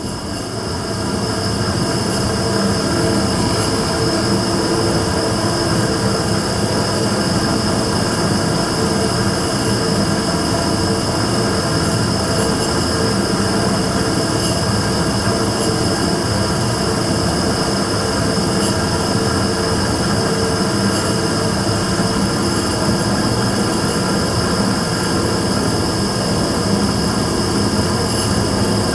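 Immersion-tube burner running with a steady roar and a constant high whine over it, a noise the owner records as abnormal.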